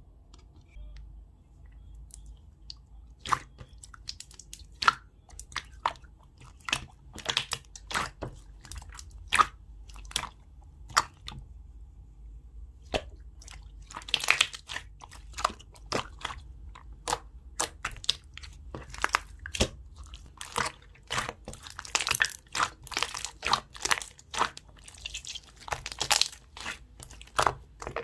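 Slime being handled, squeezed and folded, giving many sharp, irregular pops and crackles as trapped air bursts. The pops start about three seconds in and come faster in the second half, over a steady low background hum.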